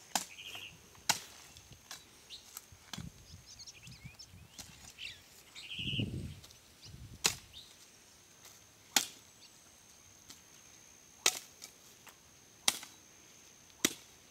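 Sharp knocks of wood on wood, about eight at irregular intervals a second or two apart, as branches and tree stumps are handled on a bonfire pile.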